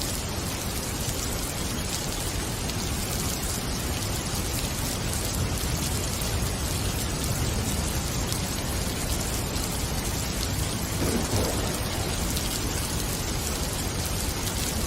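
Steady rain falling, an even patter with no let-up.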